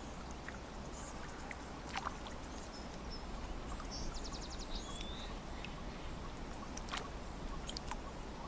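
Lake water lapping at the shore, with scattered small splashes and clicks over a steady low rumble. A bird gives a short, quick trill of high chirps about halfway through.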